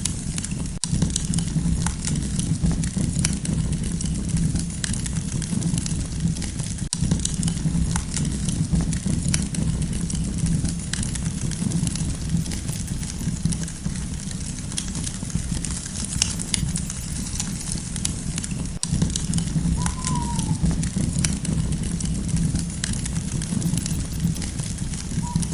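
Campfire burning steadily, with dense irregular crackles and pops of burning wood over a low, even rumble of the flames.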